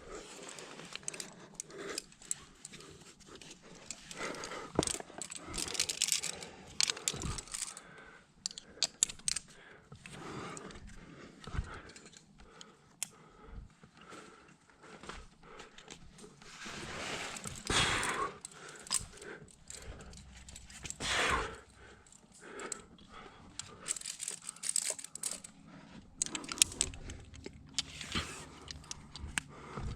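Metal climbing gear jingling and clicking, with irregular rustling and scraping as a climber moves on the rock, and a few louder swishes about halfway through.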